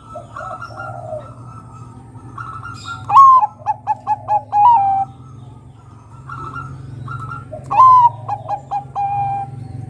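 Zebra dove (perkutut, Bangkok type) singing two cooing phrases. Each opens with a loud note, runs quickly through about five short notes, and ends on a longer, lower note. Softer calls come between the phrases over a steady low hum.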